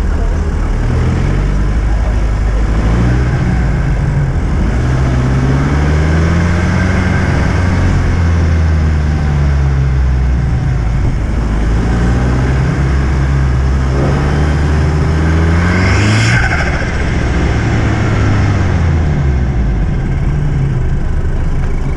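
Several car engines revving and accelerating, their notes rising and falling and overlapping. One car passes close about 16 seconds in.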